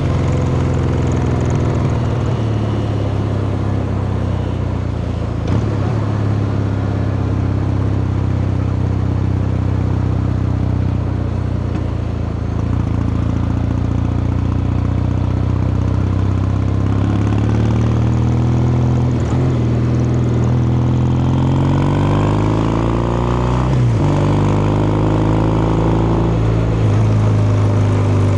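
Kawasaki Meguro K3's vertical-twin engine and exhaust under way, holding a steady pitch for about the first half. It then revs up as the bike accelerates, with a sudden drop in pitch at a gear change about two-thirds of the way through, before climbing again.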